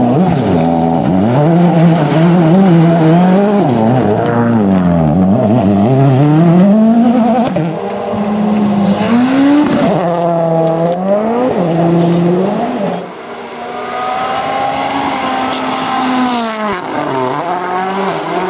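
World Rally Car's turbocharged four-cylinder engine revving hard, its pitch climbing and dropping again and again through gearshifts and lifts. It is loudest in the first half and quieter from about two-thirds of the way in.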